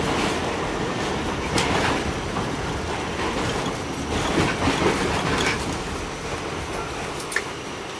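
Interior ride noise of a Pullman-Standard R46 subway car running on the line: a steady rumble of wheels on track, with a few sharp clicks from the rails. It grows slowly quieter toward the end.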